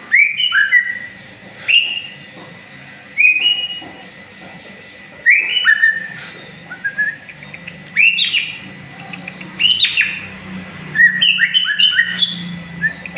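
White-rumped shama (murai batu) singing: short phrases of clear whistled notes, each sliding downward, repeated every second or two and crowding closer together near the end. It is a young contest-hopeful bird singing with spirit in its new post-moult plumage.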